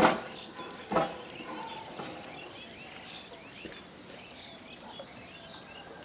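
Two sharp knocks about a second apart, then small birds chirping faintly and repeatedly.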